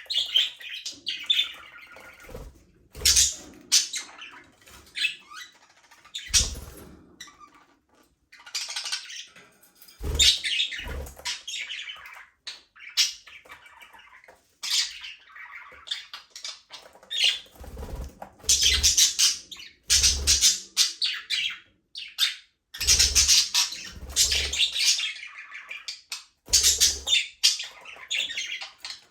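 A flock of budgerigars chirping, chattering and squawking in irregular bursts, with occasional short low thuds among the calls.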